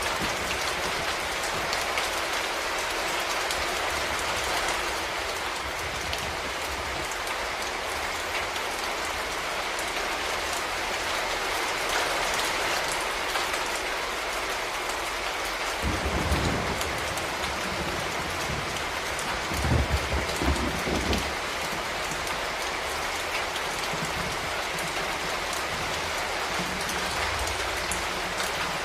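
Steady rain falling, a dense even hiss of drops on surfaces. Two brief low rumbles come about halfway through, the second the loudest moment.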